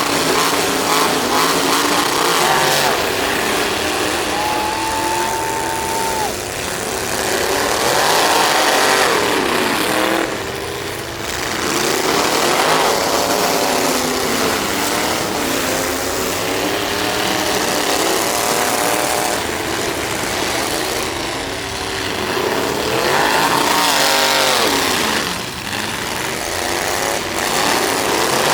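Demolition-derby truck engines revving hard, their pitch rising and falling again and again. A brief steady tone sounds about five seconds in.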